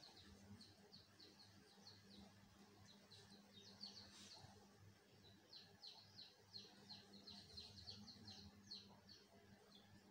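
Faint birds chirping: runs of short, quick, downward-sliding chirps, about four a second, over a faint steady low hum.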